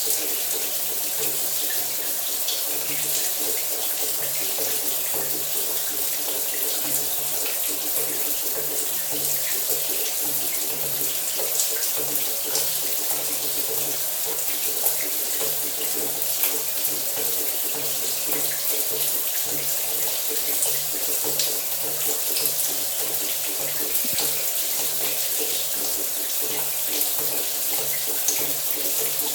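Shower running: a steady spray of water hissing and splattering without a break, with a faint low hum underneath.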